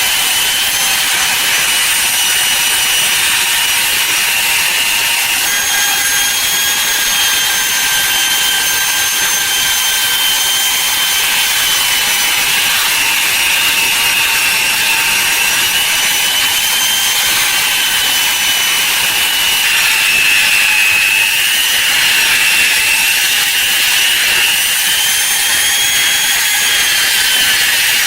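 A handheld power tool running continuously against metal, grinding or sanding, with a high whine that wavers up and down in pitch as the load changes.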